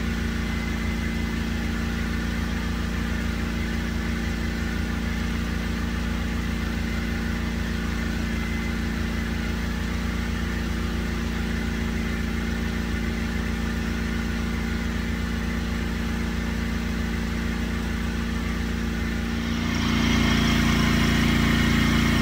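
Tractor engine running steadily at idle, growing louder and fuller about nineteen seconds in.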